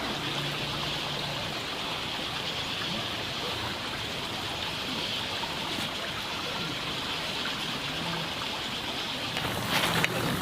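Hot oil sizzling steadily as rice cakes fry, with sharper crackles and pops near the end.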